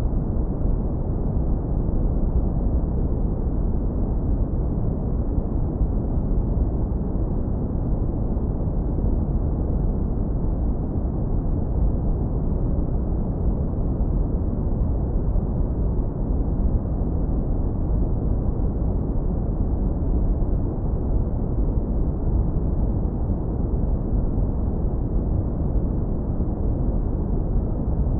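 Steady deep brown noise, filtered to keep only the low end: a warm, even rumble with no hiss and no change.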